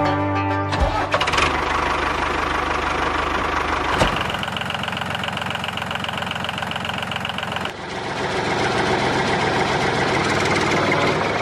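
Background music stops about a second in, and a motor runs steadily after it. The sound changes abruptly about four seconds in and again near eight seconds, as if cut between takes, with a steady whine in the middle stretch.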